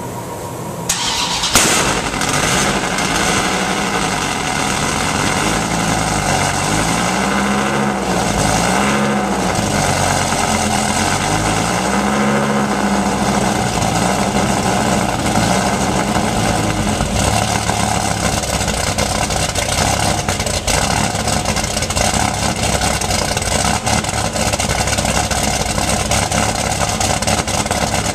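Dodge Viper GTS 8.0-litre V10, with CNC-ported heads, a custom-ground camshaft, ARH headers and a Corsa exhaust, starting about a second in with a sharp bark and then idling through the dual exhaust tips. Engine speed rises and falls several times over the first dozen seconds, then settles into a steady idle.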